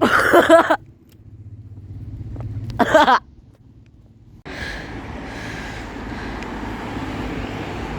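A bus engine running close by, with a steady rumble of road noise that jumps up abruptly about halfway through. Two brief vocal sounds, one at the start and one about three seconds in, are the loudest moments.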